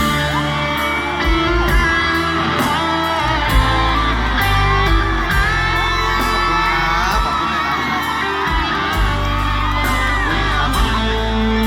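A live band plays an instrumental break: guitar and a melody line over a steady drum beat.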